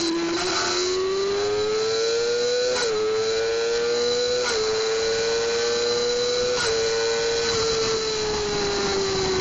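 600cc inline-four sport-bike engine at high revs under full throttle, its pitch climbing and then cut by three quick upshifts, each a short click and a slight dip. After the last shift the revs hold and then slowly sink, as the bike runs out of gearing near top speed. Heavy wind rush runs underneath.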